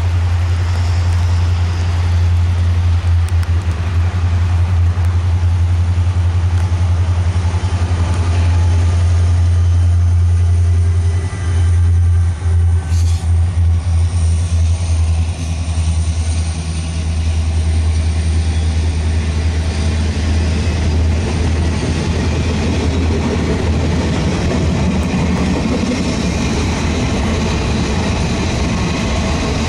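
Diesel-hauled freight train passing, then its autorack cars rolling by. A strong low steady rumble runs throughout, and wheel and rail noise from the cars grows louder in the second half.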